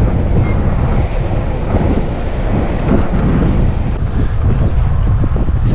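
Heavy wind buffeting the microphone at road speed, a steady low rumble.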